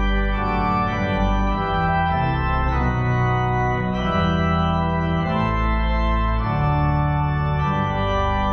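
Organ playing slow, sustained chords over held bass notes, the chords changing every second or so.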